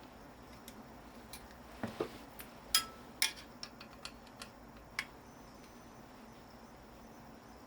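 A scattered run of light metallic clicks and knocks, about a dozen over three seconds, as metal tools and scrap motor parts are handled and tapped.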